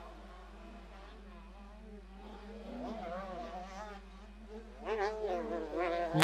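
Motocross bike engines buzzing at a distance, their pitch rising and falling as the riders rev through the corners and jumps. They get louder near the end as a bike comes closer.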